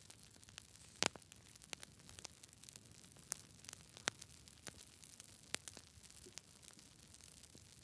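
Wood fire crackling: irregular sharp pops and snaps over a faint steady hiss, with the loudest pop about a second in.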